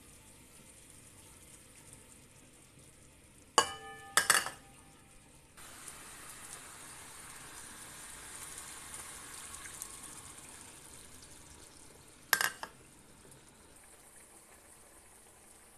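Chicken wings sizzling in a soy-sauce liquid in a wok. There are a few sharp clinks around four seconds in, the first with a brief ring. A steady sizzling hiss then starts suddenly and slowly fades, with another clink near the end.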